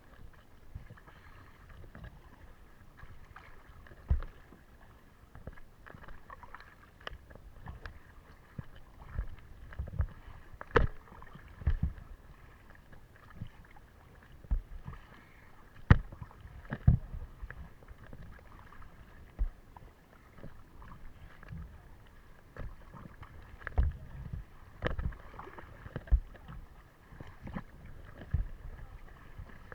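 Kayak paddling: paddle blades dipping and splashing in the water at an irregular pace, with scattered sharp knocks and low thumps.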